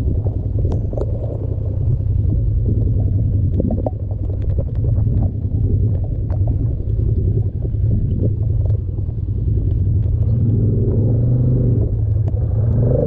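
Polaris ATV engine running steadily in high gear, a low rumble with scattered knocks; its note becomes more distinct near the end.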